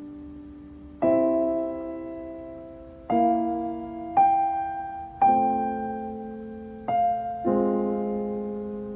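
Slow, gentle solo piano music: notes and chords struck about every second or two, each left to ring and fade.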